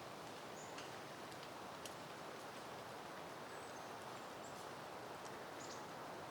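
Soft, steady wind rustling through peony plants, with a few faint, short, high bird chirps.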